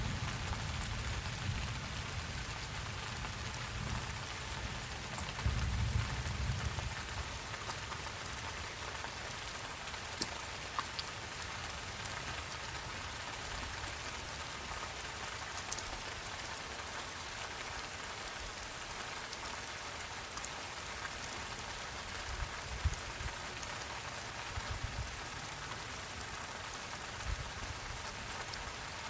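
Steady rain falling, an even hiss with scattered drop ticks. A soft low rumble runs under it for the first several seconds, and a few dull low thumps come later on.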